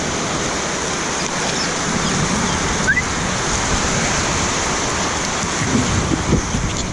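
Heavy rain falling steadily, a dense even hiss. A brief high rising chirp sounds about three seconds in.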